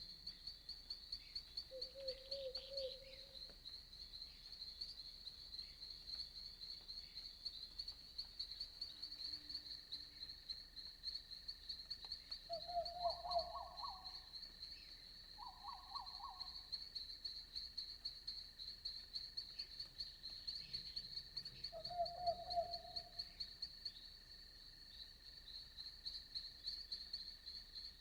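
Night insects, crickets, trilling in a steady high-pitched, rapidly pulsing chorus. Over it, a few short, lower trilled calls from frogs come about two seconds in, twice around the middle and once more about two-thirds through.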